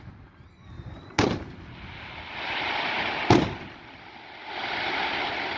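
Aerial fireworks shells bursting overhead: two sharp booms about two seconds apart.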